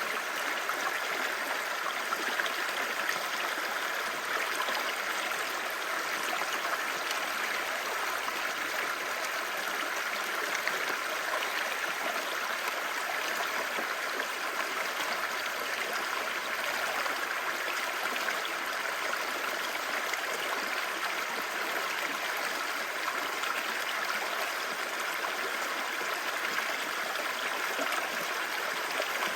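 Clear mountain stream babbling over rocks, a steady rush of water.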